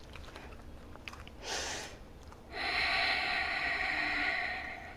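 A woman's audible breathing: a short inhale about a second and a half in, then a long exhale of about two seconds.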